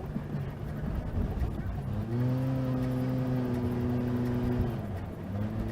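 Car engine with a low rumble; about two seconds in it climbs to a steady, held note for a few seconds, then drops off and picks up again near the end.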